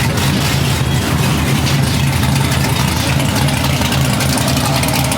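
Car engine idling with a steady low rumble, level and unchanging.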